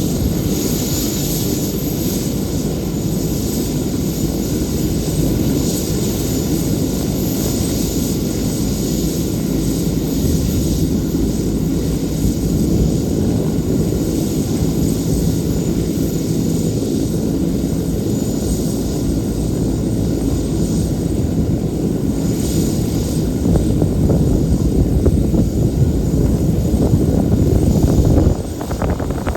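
A BK117 C-2 helicopter's twin turboshaft engines running with the rotor turning: a steady, loud mechanical noise with a held low tone. The level drops suddenly near the end.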